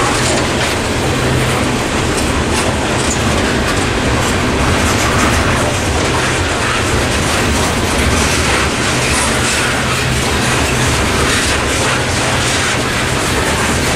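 Freight train of coal hopper cars rolling past, steel wheels clacking over the rail joints in a steady, loud run of wheel-on-rail noise.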